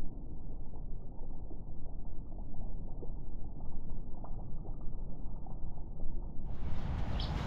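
A muffled, low rumbling noise with a few faint ticks. Near the end the sound suddenly opens up and a bird chirps twice.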